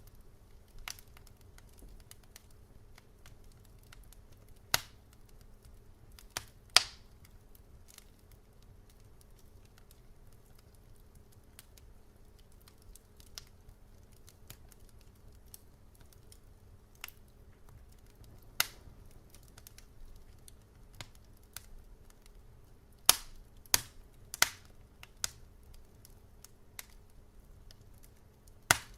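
Wood fire crackling: scattered sharp pops and snaps over a low, steady background, with a cluster of several loud pops about three-quarters of the way through.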